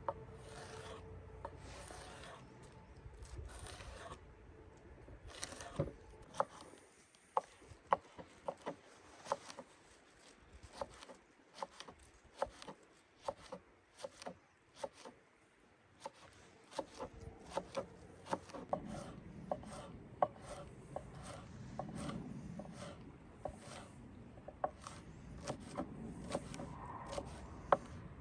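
Irregular sharp taps and knocks with rubbing or scraping between them, in uneven runs.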